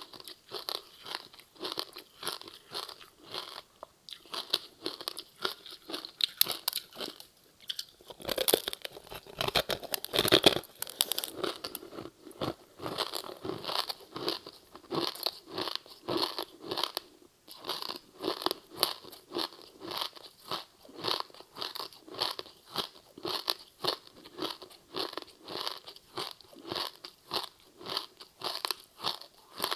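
Close-miked chewing of a crispy seaweed-wrapped rice snack: steady crunching chews about two a second, with louder, harder bites around eight and ten seconds in.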